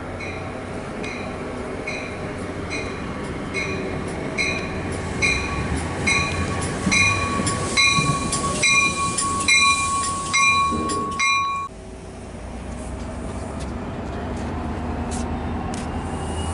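Commuter train's bell ringing steadily, about one strike every 0.8 seconds, as the train pulls in alongside the platform, with a steady high squeal growing louder midway. Near the end the ringing and squeal cut off abruptly, leaving the low rumble of the passing train cars.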